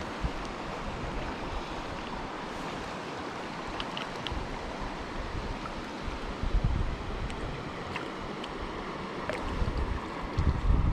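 Mountain stream water rushing steadily over rocks, with low rumbles about six and a half seconds in and again near the end.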